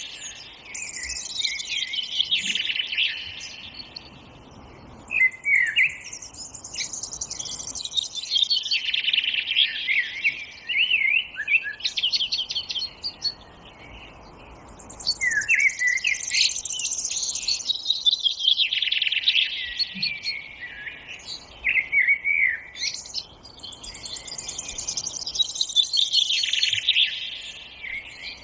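Songbirds singing in a forest, several voices overlapping in fast, twittering, warbling phrases. The song comes in waves of several seconds with brief lulls between them.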